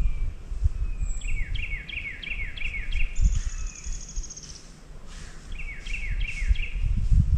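Songbirds singing in woodland: two runs of quick, repeated down-slurred whistled notes, with a high, fast trill between them. A low rumble on the microphone runs underneath.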